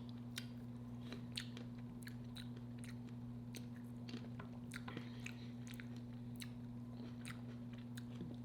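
Close-miked chewing of a mouthful of food, with many small wet mouth clicks scattered through it. A steady low hum runs underneath.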